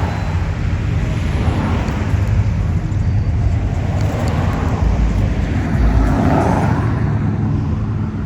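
Classic car engines rumbling as cars cruise slowly past. One passes closer and louder about six seconds in, then fades.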